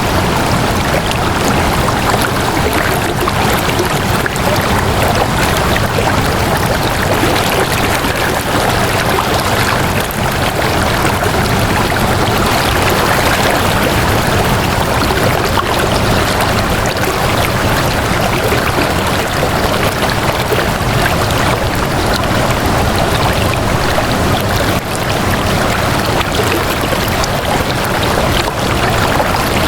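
Flowing water: a steady, unbroken rushing wash with no distinct splashes or drops.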